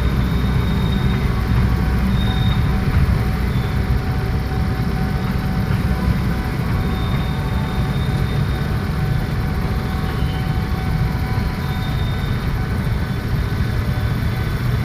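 Steady low rumble of a train at a railway station, with faint steady high whining tones over it.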